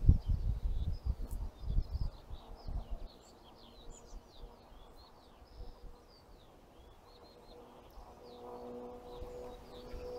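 Small birds chirping and twittering in a hedgerow, many short quick calls. A few loud low thumps in the first two seconds, and a steady hum with several even tones comes in near the end.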